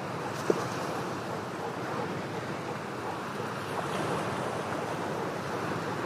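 Ocean surf washing steadily against shoreline rocks, with one sharp click about half a second in.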